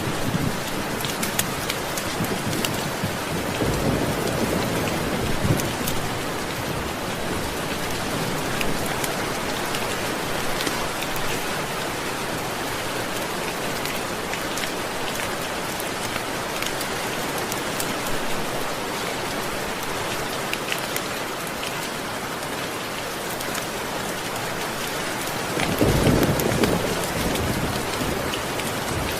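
Steady rain falling, with a low roll of thunder about four seconds in and another near the end.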